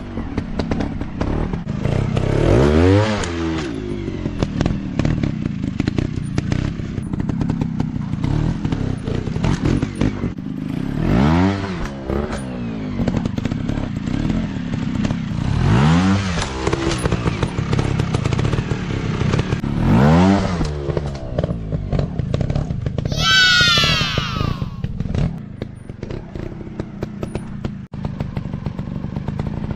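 Dirt bike engines running and revved up and back down in short bursts several times. About two-thirds of the way through, a higher-pitched engine note sweeps down and fades.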